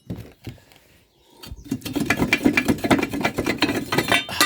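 A fast, even mechanical rattle of about ten clicks a second, from a tool working a seized nut on a Record 98 pipe vice. It builds up over about half a second, a little over a second in, after a few scattered knocks.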